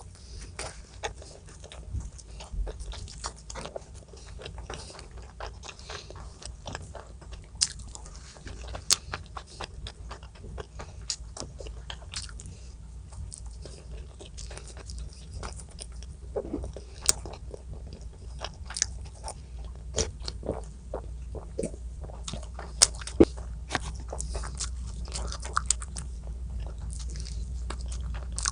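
A person eating close to the microphone: chewing and biting with irregular crunches and sharp clicks, over a steady low hum.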